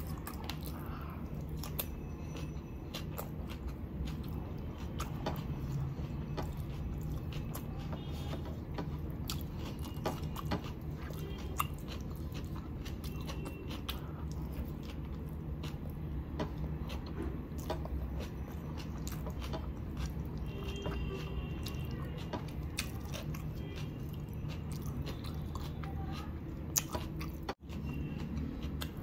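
Close-miked chewing and crunching of shredded raw salad, with many small crisp bites and wet mouth clicks.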